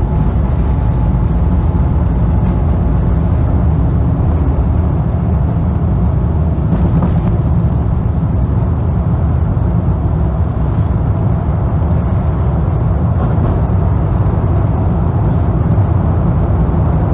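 Steady low rumble inside an Airbus A350 passenger cabin, from the jet's engines and the airframe as the aircraft moves.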